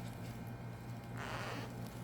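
A brief rustle of packaging being handled, about a second in, over a steady low hum.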